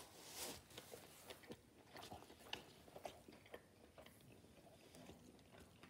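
Faint chewing of a mouthful of smoked Polish sausage in a soft bun, with small irregular clicks.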